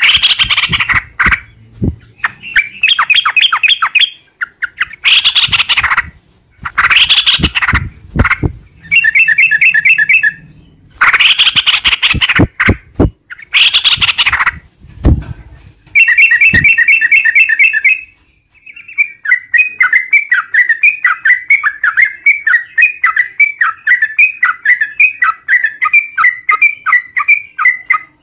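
Yellow-vented bulbul song: loud, bubbly chattering phrases of a second or two each with short gaps between. About two-thirds of the way through it breaks into one long, rapid rolling run of repeated notes that lasts to the end.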